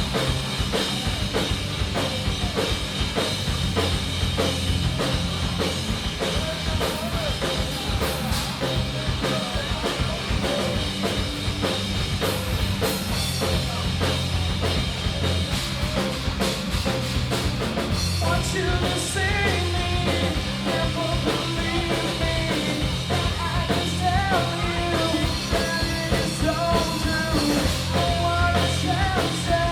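Four-piece grunge rock band playing live: drum kit, bass, electric guitar and keyboards, steady and loud. A wavering melodic lead line comes in above the band about two-thirds of the way through.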